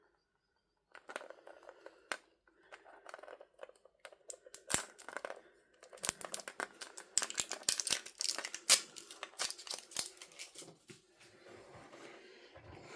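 Packaging being crinkled and torn open by hand, a dense run of rustling, crackling and sharp little clicks. It starts about a second in and is busiest in the middle.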